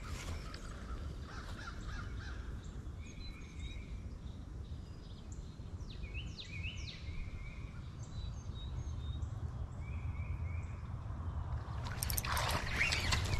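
Birds calling in short repeated phrases, each a few quick notes that sweep up and down, over a steady low wind rumble on the microphone. About twelve seconds in, a loud burst of rustling, handling noise takes over.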